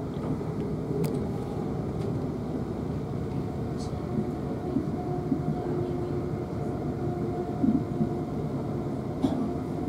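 Interior running noise of a South Western Railway Class 450 electric multiple unit at speed: a steady rumble of wheels on rail, with faint steady tones through it and a few short louder knocks in the second half.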